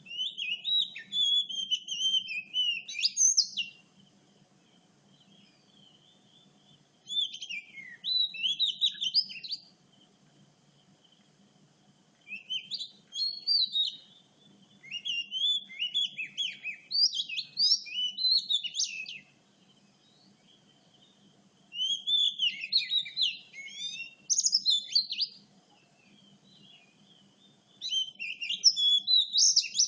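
Oriental magpie-robin singing: six phrases of quick, varied whistled notes, each a few seconds long, with short pauses between them.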